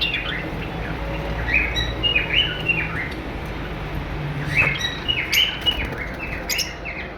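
Many small caged birds chirping together in short, high, quickly falling calls, busier in two spells with a lull in the middle, over a low steady hum.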